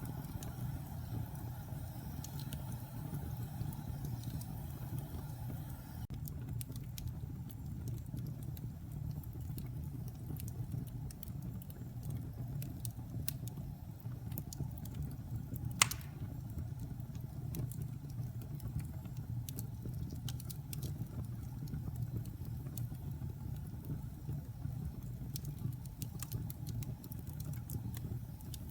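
Wood fire crackling in a fireplace: scattered small snaps over a steady low rumble, with one sharp, loud pop about halfway through.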